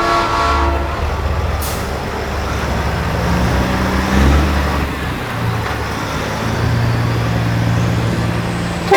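Peterbilt semi trucks' diesel engines rumbling low as the rigs roll past, the engine pitch shifting now and then. A horn note trails off right at the start, and a short air-brake hiss comes about two seconds in.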